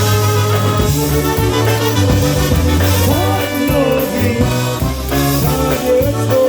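Polka band playing live, with a bass line moving under sustained melody notes.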